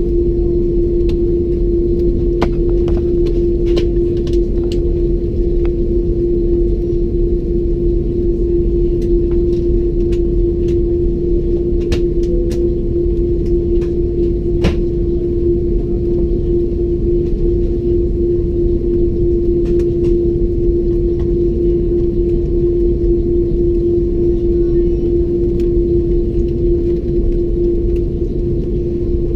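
Steady drone inside an Airbus A330-200's passenger cabin on the ground before takeoff, with a constant low hum throughout. A few faint clicks sound over it.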